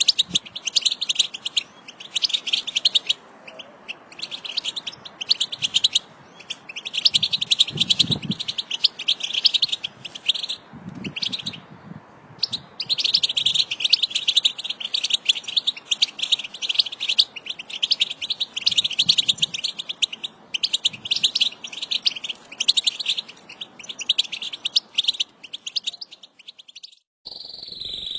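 A group of European goldfinches twittering together in fast, high chattering runs, with a few short pauses. Near the end the chatter cuts off and a steady high tone begins.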